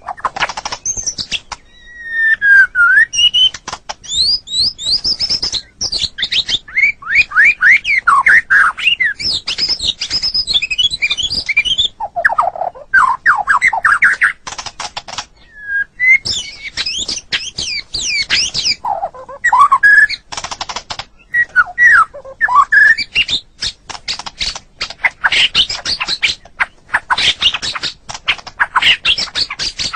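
White-rumped shama (murai batu) singing a fast, varied song of loud whistled sweeps and rapid chattering runs of notes, broken only by a few short pauses.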